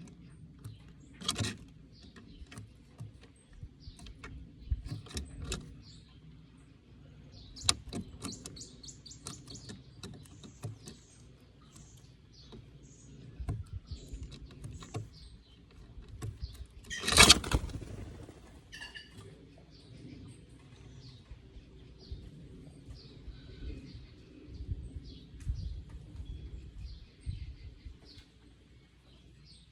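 Plush-crested jays calling: scattered short calls and clicking notes, with one loud harsh burst a little past halfway.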